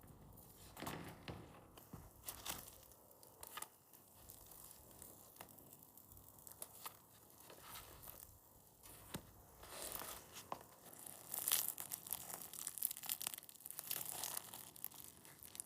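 Irregular tearing and crinkling with many small sharp clicks, busier and louder in the second half.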